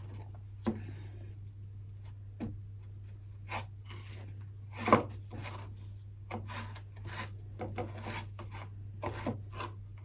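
Kitchen utensils and biscuits being handled while decorating: a string of light knocks, taps and scrapes, with one sharper knock about five seconds in, over a steady low electrical hum.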